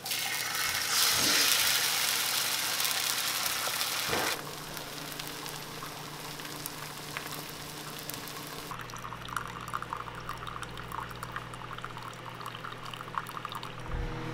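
Egg whites and an egg frying in a nonstick pan, sizzling. The sizzle is loudest for about the first four seconds, then settles to a quieter crackling sizzle, with a low steady hum joining about two-thirds of the way in.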